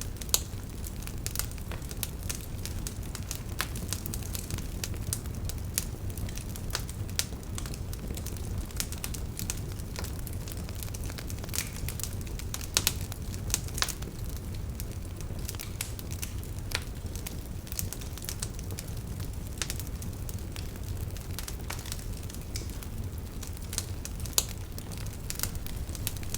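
Wood fire burning with a steady low rumble and irregular crackles and pops of burning logs.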